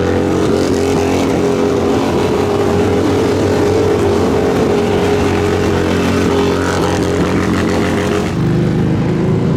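Motorcycle engine running loud at steady revs, its note held even, shifting slightly near the end.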